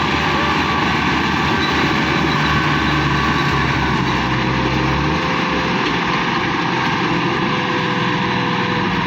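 Massey tractor's diesel engine running steadily; its low engine note eases about five seconds in.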